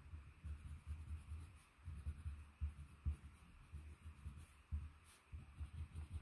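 Prismacolor coloured pencil rubbed back and forth hard on paper to blend the colours, heard as soft, irregular low thuds.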